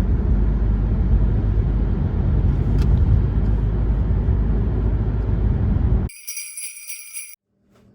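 Loud, steady low rumble of a car heard from inside the cabin. It cuts off abruptly about six seconds in, and a short, bright chime of several high ringing tones follows for about a second.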